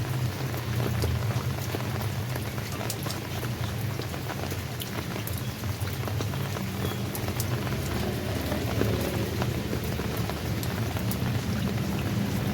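Steady rain falling, with many individual drops ticking sharply against a surface over a continuous hiss of rainfall, and a steady low rumble beneath.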